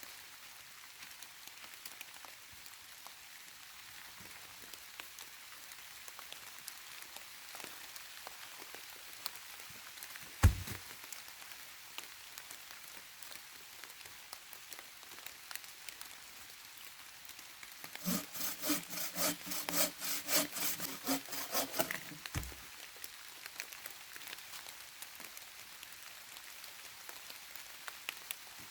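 Hand saw cutting through wood in quick back-and-forth strokes for about four seconds past the middle. Before that there is only a faint steady patter with scattered ticks, and one sharp knock about ten seconds in.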